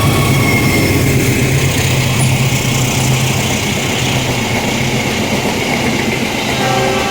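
Argo Wilis passenger train passing: the diesel locomotive's engine hum fades within the first few seconds, leaving the carriages rolling past on the rails.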